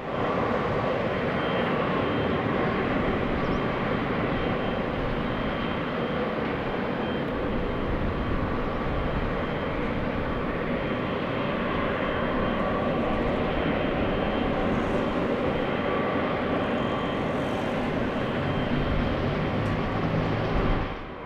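Jet airliner engines running steadily: an even rushing roar with faint high whines held throughout.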